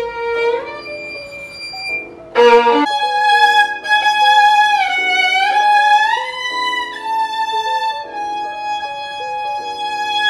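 Solo violin playing a slow passage of sustained notes with vibrato, with a short, loud chord about two and a half seconds in and a slow slide down and back up in pitch around the middle. The passage is played from memory by a student who is still memorizing the end of the piece.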